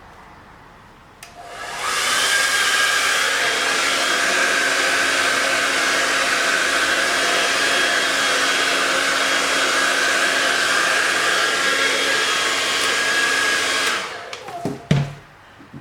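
Handheld hair dryer switched on with a click about a second in, coming up to speed and blowing steadily with a high whirring hiss, then switched off about two seconds before the end, followed by a few light knocks.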